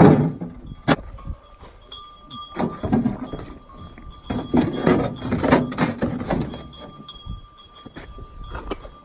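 Irregular knocks and thunks, in two clusters a few seconds apart, with a faint steady high tone beneath.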